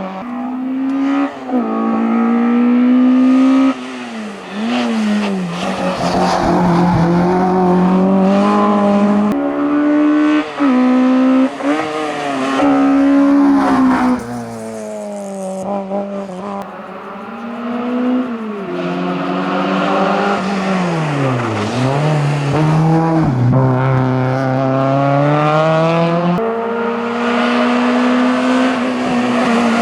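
Citroën AX hillclimb race cars driven flat out, one after the other. Each engine revs hard up through the gears, its pitch climbing and then dropping back sharply at every shift, with deeper dips where the car lifts off for corners.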